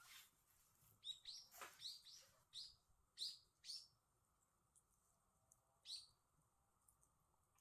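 Small wild songbird giving a quick run of short, falling high chirps, about seven in under three seconds, then one more a couple of seconds later. Two faint sharp clicks, one at the start and one about a second and a half in.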